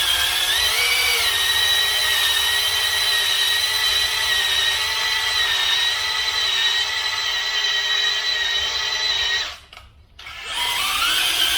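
Electric drill spinning a stone cylinder hone in an engine bore lubricated with kerosene, a steady whine from the drill motor over the grinding of the stones. Near the end the drill stops for about a second, then starts again and its pitch rises as it spins back up.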